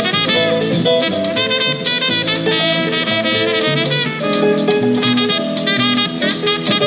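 Jazz music with saxophone and brass over a drum kit keeping a steady beat.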